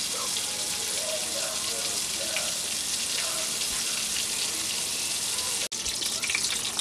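Flour-dredged cube steaks sizzling steadily in hot oil in a stainless steel skillet, with a constant crackle. The sound drops out for an instant near the end, then the frying carries on.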